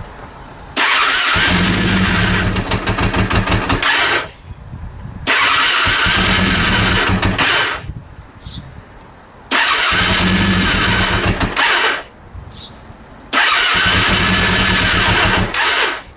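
Honda CB400 four-cylinder engine turned over by its electric starter in four separate bursts of cranking, each lasting two to three and a half seconds, with a fast even pulsing. The engine does not catch and run, a sign of a starting problem in the rebuilt engine.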